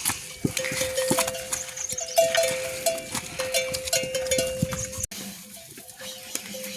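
Flock of goats and sheep with ringing bells and scattered clicks, which fall away sharply about five seconds in.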